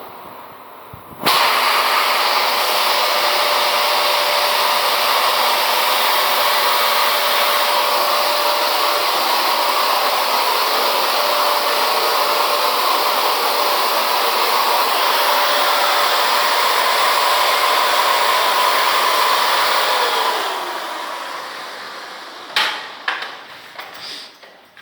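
An electric motor-driven blower or power tool runs with a steady loud whoosh. It switches on sharply about a second in and is switched off around twenty seconds in, its pitch falling as it spins down. A few sharp knocks follow near the end.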